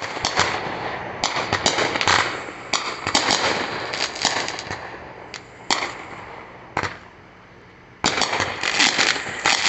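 Fireworks going off in clusters of sharp, rapid cracks and bangs. A brief lull comes about seven seconds in, then a dense volley of crackling bangs from about eight seconds in.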